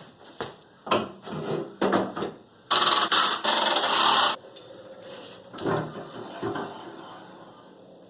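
Rough scraping and rubbing strokes, a few short ones and then one loud stretch of about a second and a half some three seconds in, followed by a couple of weaker strokes.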